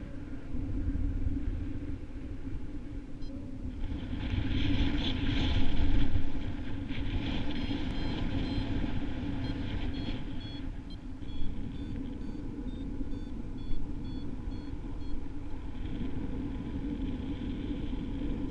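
Strong wind buffeting the microphone in flight, a steady rumble that swells around five seconds in. Through the middle, a run of short high electronic beeps steps in pitch, like a variometer signalling lift.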